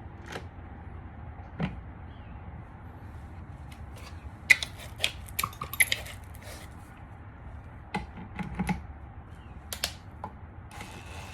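Scattered small, sharp clicks and taps of hand tools, screws and parts being handled while a car door handle's mechanism is refitted, with a dense cluster of clicks in the middle.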